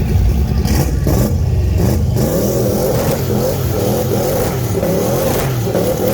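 Old truck's engine revving hard during a burnout, its pitch rising and falling over and over about once a second.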